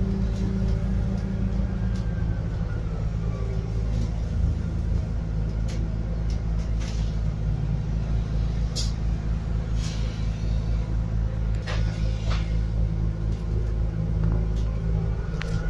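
Scania N280UD biogas double-decker bus on the move, heard from inside: steady low engine and road rumble, with scattered short rattles and clicks.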